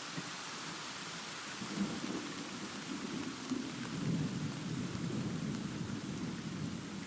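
Thunderstorm: steady rain hiss with a long low thunder rumble that builds about a second and a half in and swells strongest near the middle.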